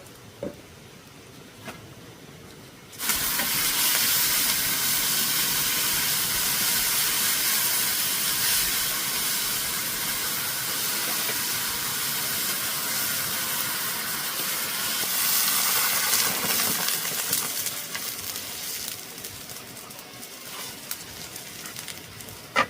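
Food dropped into hot cooking oil, sizzling loudly. It starts suddenly about three seconds in, holds steady, then dies down gradually near the end.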